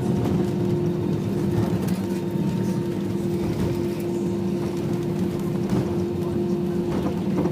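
Airbus A320 cabin noise: the steady roar of the engines and airflow, heard from inside the passenger cabin, with a constant hum running through it.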